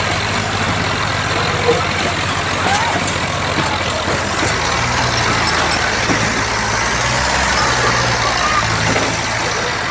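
Diesel tractor engines of an Eicher and a Swaraj 735 running hard in a tochan tug-of-war pull. Their low, steady engine note shifts pitch about halfway through and again near the end, under a constant noisy hiss with voices.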